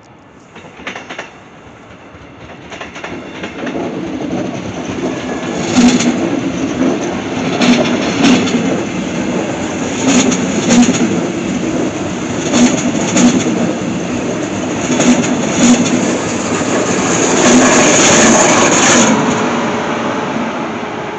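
A DB regional push-pull train of red double-deck coaches, with a red DB electric locomotive at the rear, approaching and passing close by. The rolling noise builds up over the first few seconds. Paired clickety-clack knocks of wheels crossing rail joints come every two to three seconds. The loudest stretch is near the end, as the rear of the train passes.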